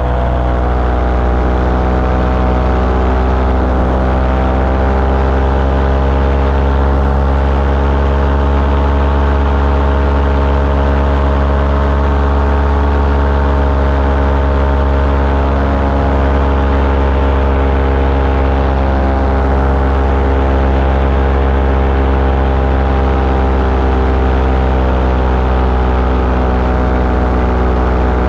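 Small aircraft engine running steadily at near-constant speed, its pitch drifting only slightly.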